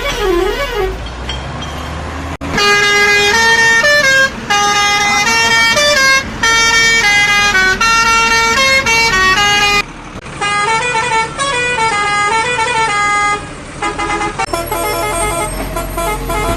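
A wailing siren rising and falling, which stops about a second in, then a musical vehicle horn playing a tune of held notes in several phrases with short breaks between them.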